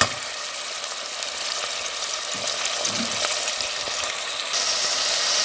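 Boiled beef pieces and onions sizzling in hot oil in a cooking pot, a steady hiss that grows brighter about four and a half seconds in.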